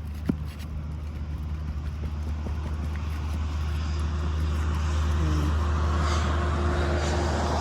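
A motor vehicle's engine running nearby, a steady low hum that grows gradually louder, with a few light clicks near the start.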